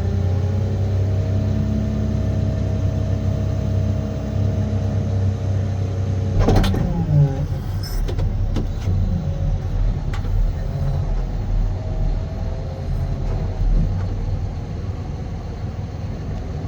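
Diesel engine of a Cat 725C articulated haul truck running steadily; about six and a half seconds in there is a sharp knock, after which the engine sound is rougher and more uneven.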